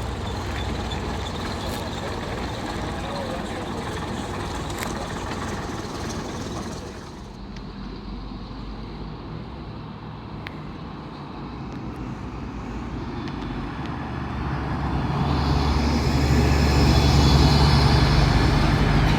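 A bus's diesel engine running and growing steadily louder over the last third, as if it is drawing near, over background voices and outdoor noise.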